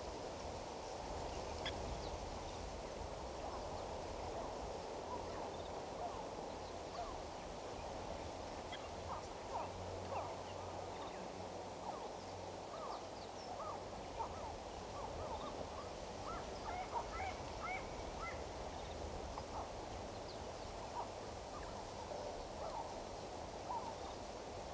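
Many short, quick bird chirps scattered over a steady background hiss, busiest in the middle.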